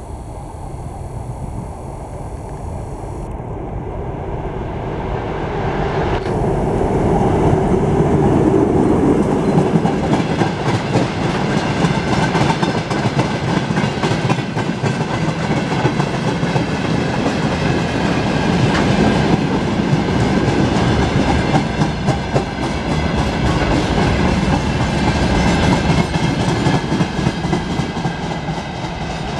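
TEM18DM shunting diesel locomotive approaching with a freight train, its diesel engine growing louder over the first several seconds as it comes up and passes. The tank cars then roll by close, with a steady rapid clickety-clack of wheels on the rails.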